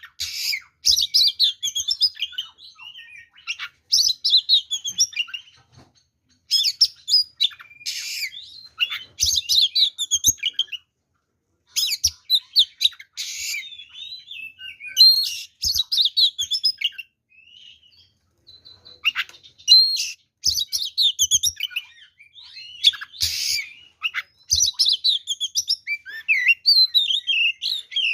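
Oriental magpie-robin (kacer) singing a full, varied song: rapid runs of whistles, chirps and harsh notes in phrases of a few seconds with short pauses between them. It is the loud, excited singing of a male in fighting mood, packed with mimicked phrases of other birds.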